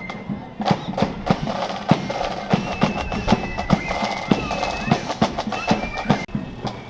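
Marching flute band heard live in the street: shrill flute notes over sharp, irregular drum strikes, with crowd voices.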